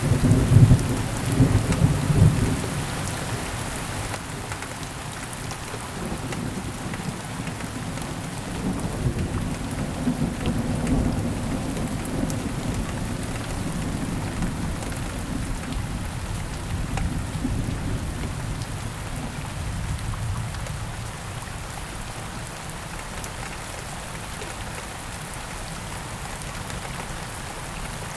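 Steady rain with thunder: a loud rumble of thunder breaks at the start, and low rolling thunder goes on in swells before dying away about two-thirds of the way through.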